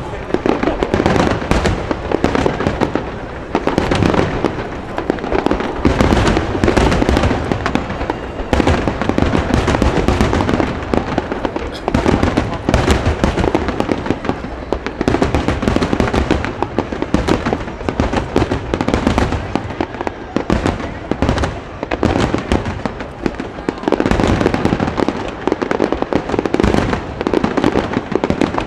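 Dense, continuous barrage of aerial firework shells bursting in quick succession, the finale of a large display, with no let-up.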